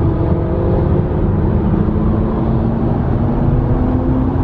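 Car driving along with a steady engine hum that rises slowly in pitch as it gently picks up speed, over a heavy bed of road and wind noise.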